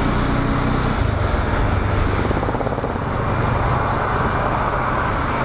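Bajaj Dominar 400's single-cylinder engine running steadily while riding, under continuous wind and road noise.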